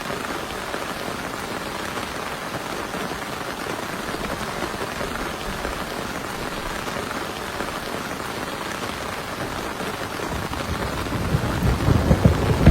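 Heavy rain falling steadily, with a low thunder rumble building from about two seconds before the end and loudest as it closes.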